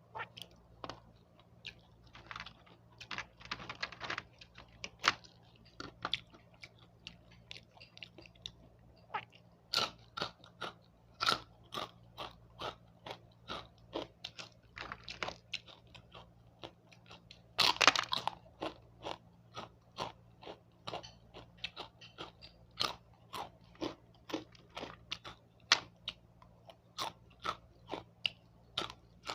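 A person eating close to the microphone: chewing with frequent sharp crunches of crisp food, with a burst of louder, denser crunching a little past halfway.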